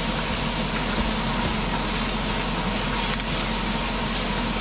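Onions, garlic and ginger sizzling steadily in a frying pan.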